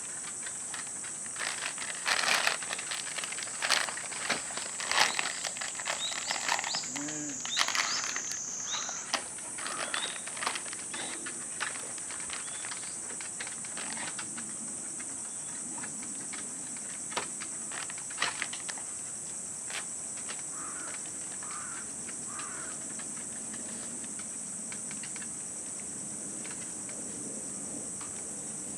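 A steady, high-pitched insect chorus, with scattered sharp clicks and knocks during the first dozen seconds.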